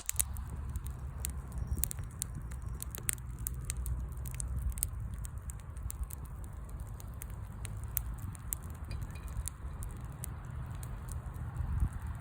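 Wood fire burning, with frequent irregular sharp pops and crackles over a steady low rumble.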